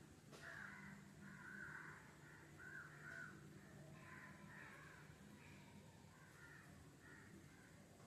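Faint bird calls: bouts of short, rough repeated calls coming every second or two.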